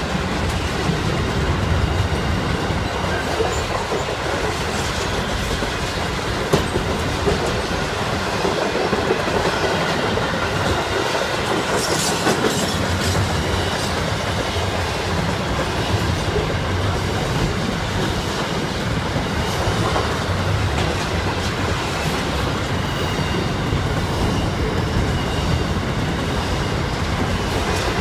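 Long intermodal freight train of container flat wagons rolling steadily past, its wheels clattering over the rails.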